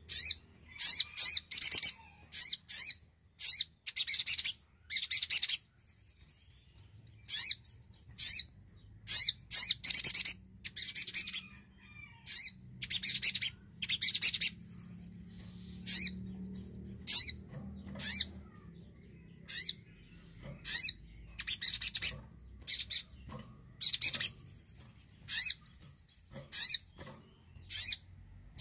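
Little spiderhunter (sogon) singing: loud, sharp, high chirps in quick repeated bursts, broken by a few short, steady, buzzy trills.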